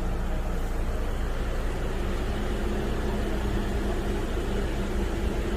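Steady engine and road noise inside a moving Jeep Wrangler, a constant low hum.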